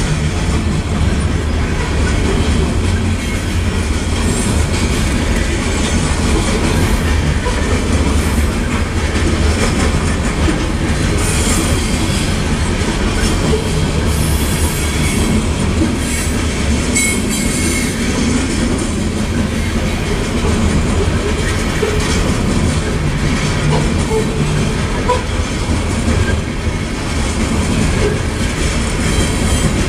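Freight train of covered grain hopper cars rolling past a grade crossing: a steady low rumble with the clickety-clack of steel wheels over rail joints. Some high wheel squeal comes through in the middle.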